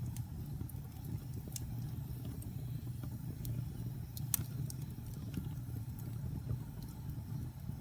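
Wood fire burning in a fireplace: a steady low rumble with scattered sharp crackles and pops, the loudest pop a little over four seconds in.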